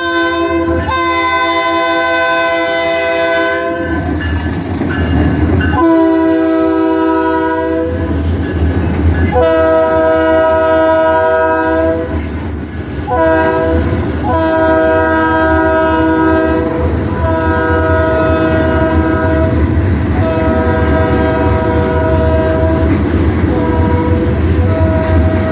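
Diesel freight locomotive's multi-note air horn sounding a long series of blasts, several lasting two to three seconds. Under it run a steady low engine rumble and the clatter of wheels over rail joints.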